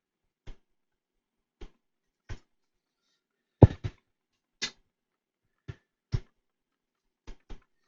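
Scattered light clicks and taps of small tools and parts handled on a repair bench, about nine in all, with the loudest, a quick double tap, a little past the middle.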